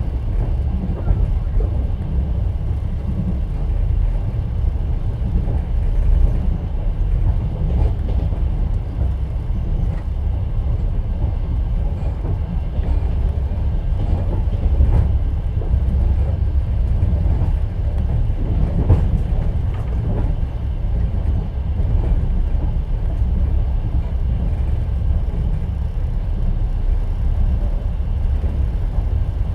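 Wheels of a moving passenger train rumbling and clattering on the rails, heard from inside an open-plan sleeper carriage. The deep rumble is steady, with a few louder knocks now and then.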